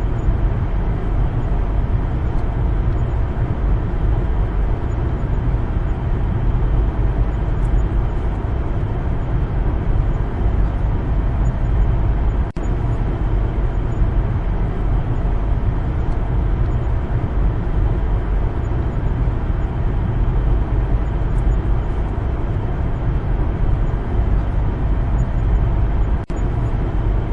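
Car driving: steady road and engine noise, deepest in the lows, that drops out for a moment twice, about twelve seconds in and near the end.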